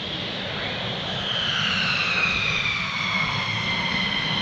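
Military jet engine running, its high whine gliding slowly downward as the sound grows louder.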